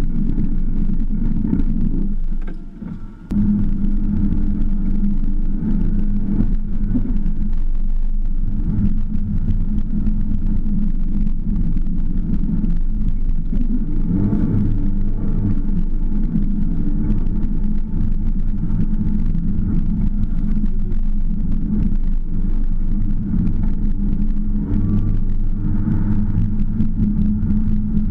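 MINI Cooper S Paceman's engine running as the car is driven, heard from inside the cabin as a steady low drone. The sound drops away briefly about three seconds in.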